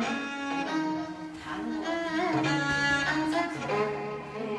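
Music played on bowed string instruments: slow held notes with vibrato that change every second or so.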